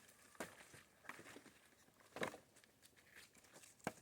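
Faint, scattered rustling and crackling: a handful of short, sharp sounds about a second apart.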